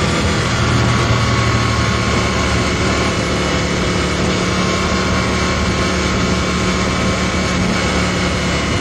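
Aprilia RSV Mille's V-twin engine running through an aftermarket Micron exhaust while the bike is ridden, holding fairly steady revs, with a rushing noise underneath.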